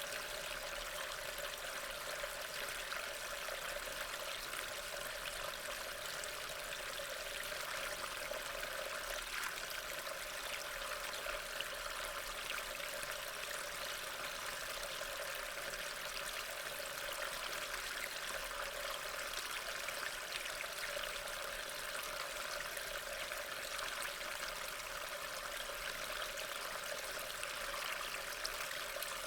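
Steady rain: an even hiss of falling water with a fine patter of drops, unchanging throughout.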